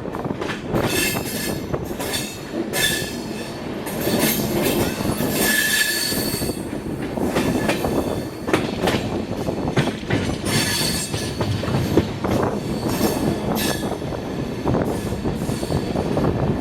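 Passenger train running on the steep Kasara–Igatpuri ghat section, its wheels clattering and knocking on the rails, with a few brief high-pitched squeals from the wheels.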